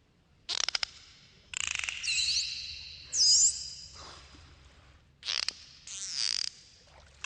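Dolphins clicking and whistling underwater. Rapid click trains come in several bursts, the first about half a second in. They are joined by high whistles that sweep up and down and loop, loudest around three seconds in, with another click burst and whistle after five seconds.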